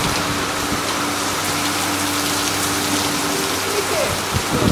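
Heavy torrential rain pouring down in a steady downpour, with a faint steady low hum underneath.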